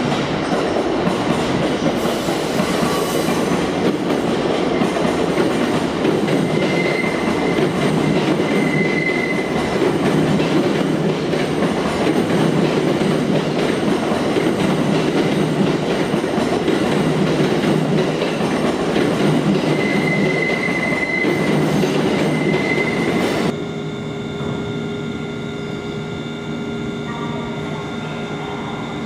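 JR 205-series electric train pulling out along the station tracks: a loud, steady rumble of wheels and running gear with two brief high-pitched wheel squeals. A little over twenty seconds in, it cuts off suddenly to a quieter steady electric hum, with an EV-E301 battery train standing at the platform.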